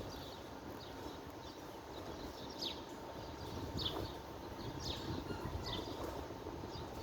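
Wind blowing steadily with a rushing noise, and small birds chirping over it in short, high, downward calls about once a second.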